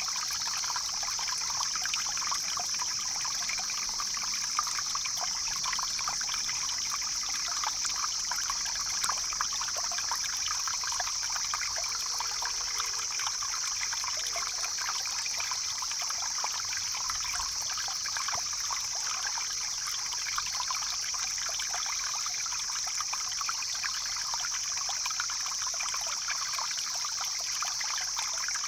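Stream flowing steadily, an even trickling and splashing of water over rocks with a constant high hiss.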